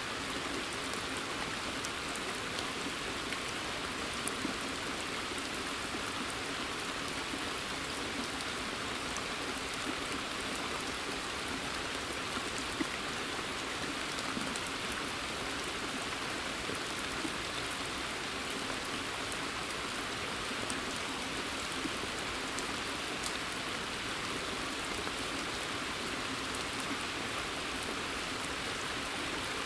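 Steady rain in a forest: an even hiss with many scattered close drip ticks.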